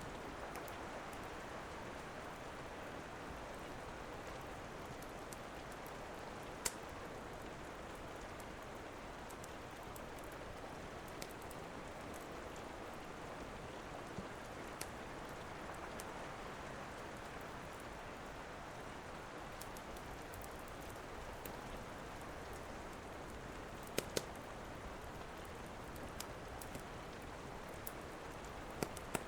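Steady rain falling, with the occasional sharp pop of a crackling wood fire. The loudest pops come about a quarter of the way in and as a quick pair about 24 seconds in.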